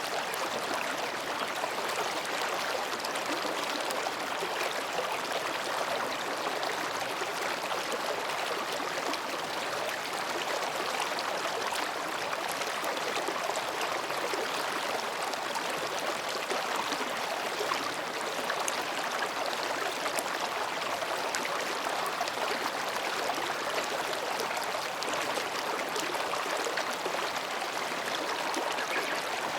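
Mountain stream babbling as it flows over and between rocks: a steady, even rush of water with small splashes throughout.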